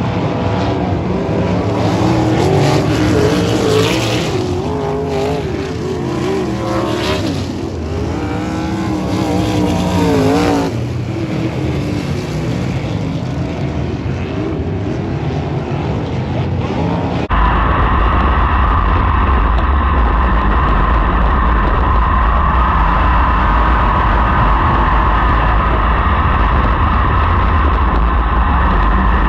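Sprint car V8 engines racing around a dirt oval, the pitch rising and falling as cars pass. About two-thirds of the way through, the sound cuts abruptly to a louder, steadier engine drone.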